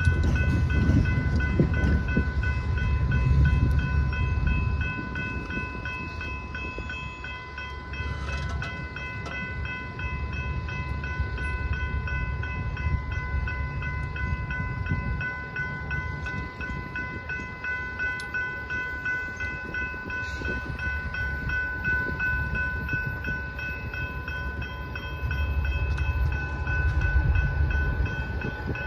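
Faint low rumble of a distant BNSF train approaching, mixed with gusts of wind on the microphone that swell in the first few seconds and again near the end. A steady high-pitched whine sits over it.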